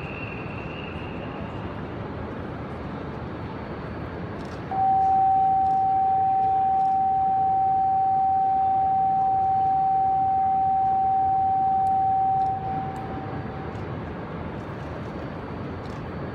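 A single steady electronic warning tone sounds for about eight seconds, starting about five seconds in, over the steady hum of the station platform.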